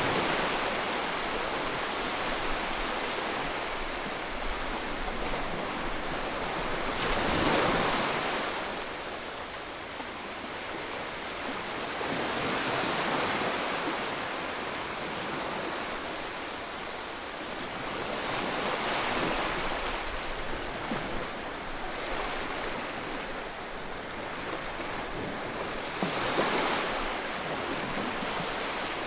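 Ocean waves breaking on the shore, a swell of surf about every six seconds over a steady wash, the strongest breakers about a quarter of the way in and near the end.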